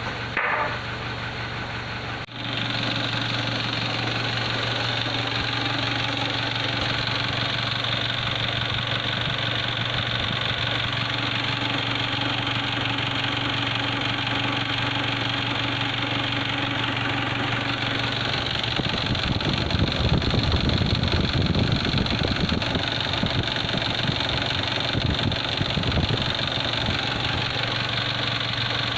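Mitsubishi 4D56 common-rail four-cylinder diesel engine idling steadily. For a few seconds about two-thirds of the way through it runs louder and rougher.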